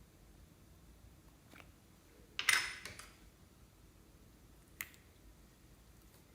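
Slime-making handling sounds: a short crackling, crinkling burst about two and a half seconds in, with a faint click before it and a single sharp click near the end.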